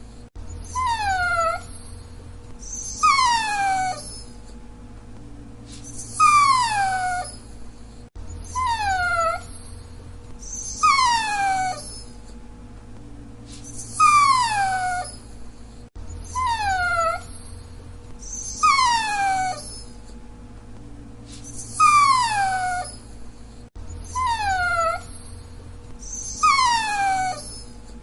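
Dachshund whining: short, high whines that each slide down in pitch over about a second, coming every two to three seconds. The same run of whines repeats about every eight seconds.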